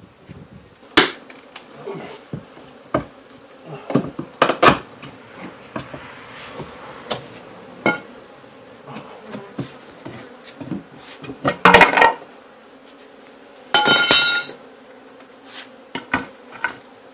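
Honeybees buzzing with a steady hum, broken by scattered knocks and clicks from the hive being worked apart, a cluster of loud knocks about twelve seconds in and a brief squeak just after.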